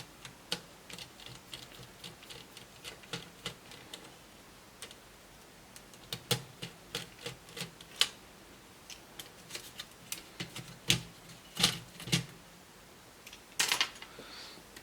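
Irregular clicks and light knocks of hard plastic laptop parts being handled and set down during disassembly, with a short scrape near the end.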